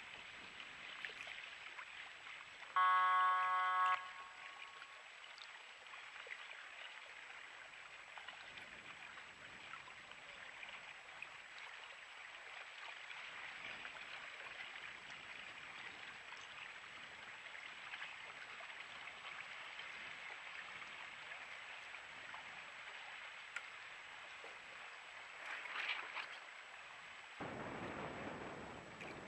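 Steady rush of wind and water on a sailing boat, with one loud horn blast, about a second long, about three seconds in. A deeper rush joins near the end.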